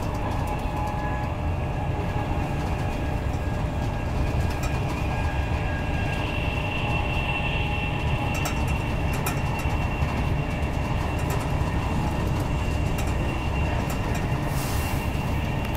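Inside a Mark 4 passenger coach of an Intercity 225 set running at speed: a steady low rumble of wheels on the track with faint steady tones over it. Scattered light clicks come in the middle, and a brief hiss of passing air comes near the end.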